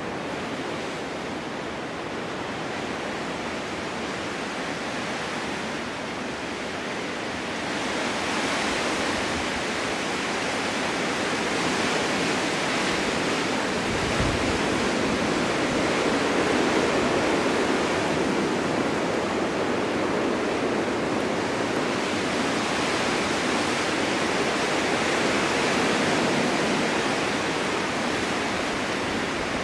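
Snowstorm wind blowing steadily, swelling into a stronger, longer gust about a quarter of the way in and easing a little near the end. A brief low thump comes near the middle.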